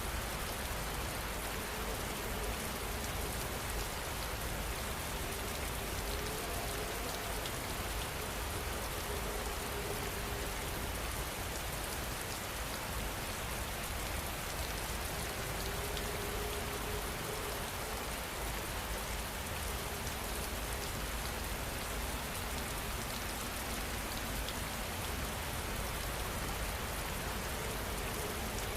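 Steady, continuous rain falling, an even hiss of drops on a surface that does not change in strength.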